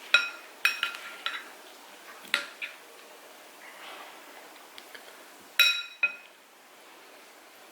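Cutlery clinking against a dish at a meal: a handful of sharp, ringing clinks in the first few seconds, then two more about two-thirds of the way through.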